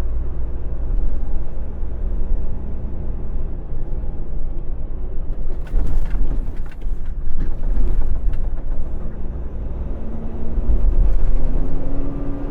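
Semi-truck's diesel engine running with a heavy low rumble, heard from the cab, its pitch rising from about nine seconds in as the revs climb. A few brief rattles or clicks around six and eight seconds in.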